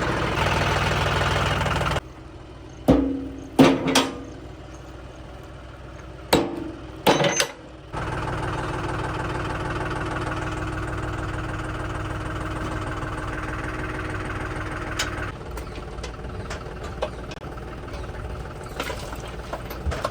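Diesel tractor engine running steadily, cut off abruptly about two seconds in. A few loud short sounds follow in the quieter stretch, and then the engine drone returns and runs on, a little quieter near the end.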